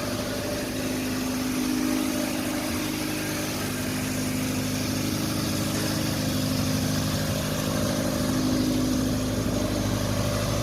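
1985 Honda Prelude's 2.0-litre four-cylinder engine idling steadily.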